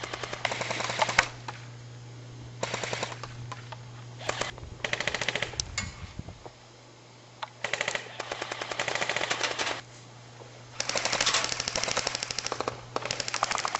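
Airsoft rifles firing repeated full-auto bursts: fast runs of mechanical clicks, about eight bursts of half a second to two seconds each, some overlapping.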